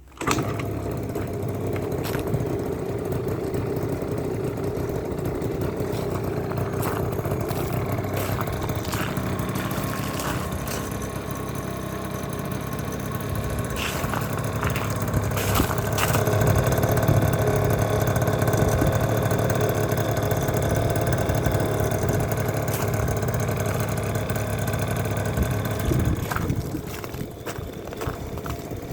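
Yamaha Jog Aprio scooter's small two-stroke single-cylinder engine catching on a cold start after weeks standing in winter, then running steadily. It runs a little louder through the middle and drops back near the end.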